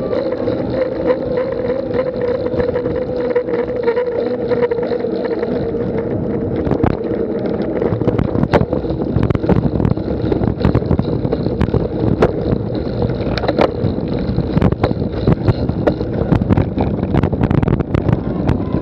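A steady motor hum that fades out over the first several seconds, then rough wind noise on the microphone with scattered sharp clicks and knocks.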